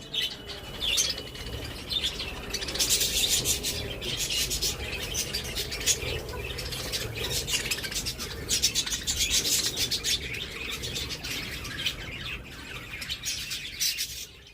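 Pet budgerigars chattering and chirping, a busy run of rapid high chirps and warbles that thins out near the end.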